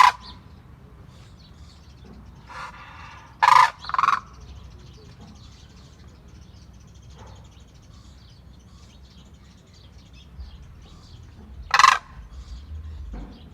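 Pet cranes giving short, loud, harsh calls: one at the start, a quick run of three about three to four seconds in, and one more near the end.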